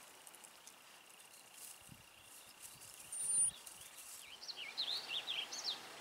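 Small songbird chirping: a short high whistle about three seconds in, then a quick run of sweeping chirps over the last two seconds, against a faint steady high insect-like whine and soft rustling.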